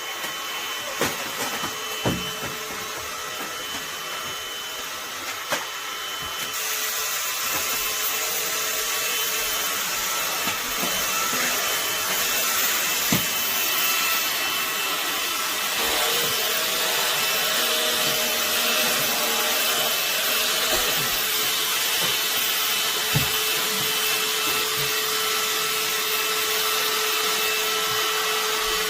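Vacuum cleaner running steadily, with a few short knocks and bumps along the way. It gets louder and hissier about six seconds in.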